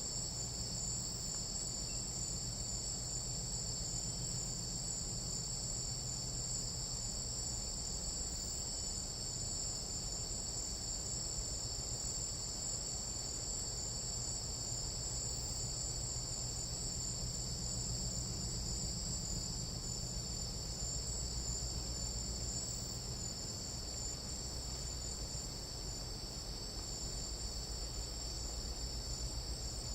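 Dense, continuous chorus of tropical night insects, several high-pitched steady trills layered together, with a low steady rumble underneath.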